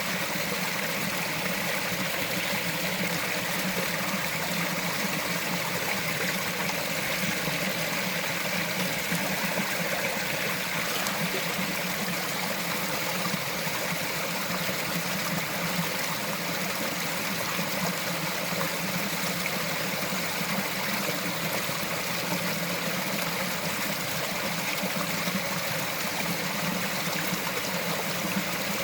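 A small mountain forest stream, its water running and trickling over stones in a steady, unbroken rush.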